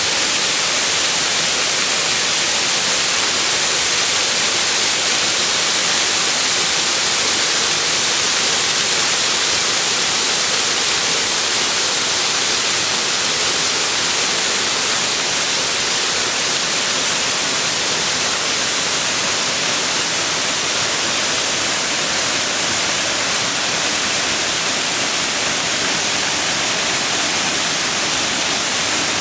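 Waterfall: a steady rush of falling water, a dense hiss with most of its energy in the upper-middle range and no breaks.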